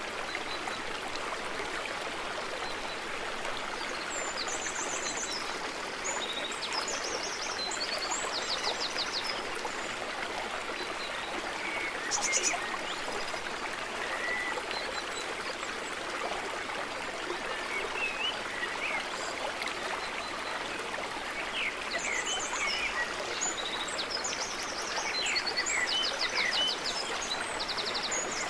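Forest stream running steadily, with a songbird singing short trilled phrases in two bouts, about four seconds in and again a little past twenty seconds, and a brief sharp call near the middle.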